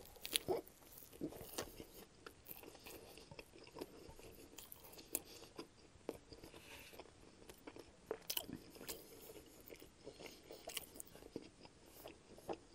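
Close-miked chewing of a mouthful of sub sandwich: a bite near the start, then faint wet mouth clicks and soft crunches scattered throughout.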